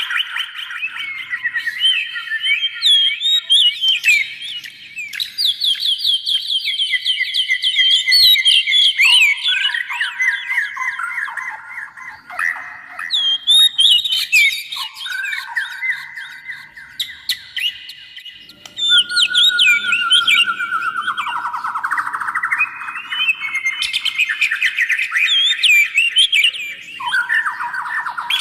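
A songbird singing a long, varied song of rapid trills and repeated short phrases that step up and down in pitch, with hardly a pause.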